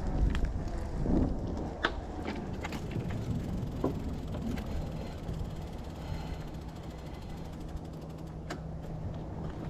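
Riese & Muller Roadster e-bike being ridden: a low rumble of tyres and wind, with several sharp clicks and rattles from the bike in the first few seconds. A steady low hum comes in about halfway through.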